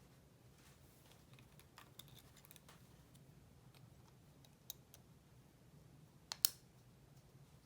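Light clicks and scrapes of small model car parts being handled and worked by hand, with a sharp click near five seconds in and two louder clicks close together about six seconds in, over a low steady hum.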